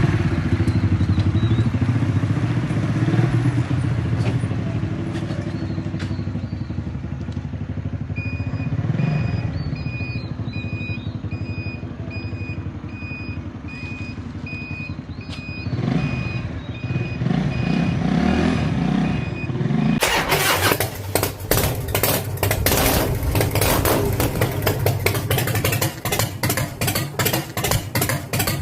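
Harley-Davidson motorcycle engine running, a steady low rumble, with a faint on-off beeping from about eight seconds in. About twenty seconds in, a louder sound of rapid sharp pulses takes over.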